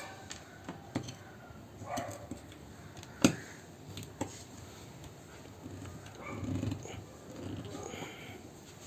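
A screwdriver clicking and tapping against a contactor's screws as it tries to undo them, a handful of sharp separate clicks; the screws are stuck and will not loosen. Faint wavering calls sound in the background.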